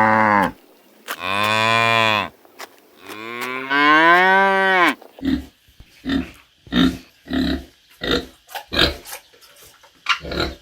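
Cattle mooing: three long, drawn-out moos, the third rising in pitch. These are followed by a run of about ten short calls, roughly two a second.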